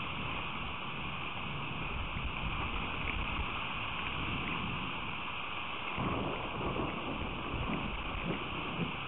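Steady rain, a continuous hiss with faint drop ticks, with an uneven low rumble of wind on the microphone that grows a little busier about two-thirds of the way through.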